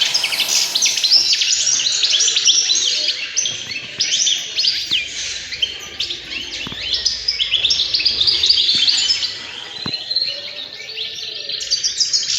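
Many small cage birds chirping and twittering together, a dense, continuous chorus of high, quick calls.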